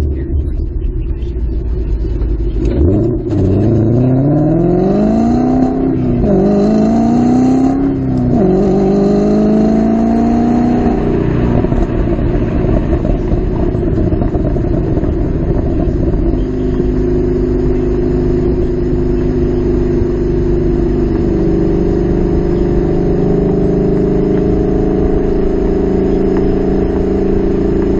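2013 Mustang GT 5.0L V8 with long-tube headers, catted X-pipe and factory mufflers, running at a low rumble, then accelerating hard with a rising note that drops twice at upshifts before settling into a steady cruising drone.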